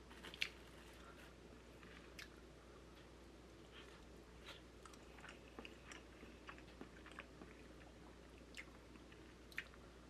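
Faint chewing of sticky rice, with small scattered mouth clicks every second or so over a quiet room hum.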